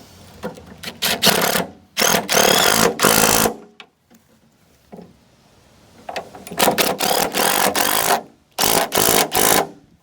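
Handheld power tool run in four bursts of about one to one and a half seconds, with a pause in the middle. Each burst is a loud, fast rattling run.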